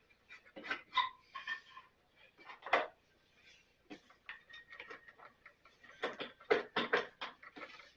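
Irregular light metallic clicks and clinks of hand tools and parts being handled, a few with a short ring, loudest in a cluster near the end.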